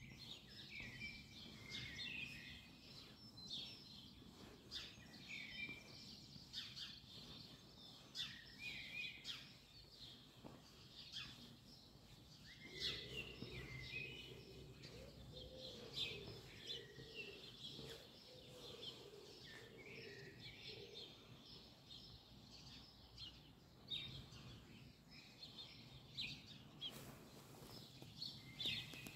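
Small songbirds chirping and twittering again and again, over a faint low background hum of the town.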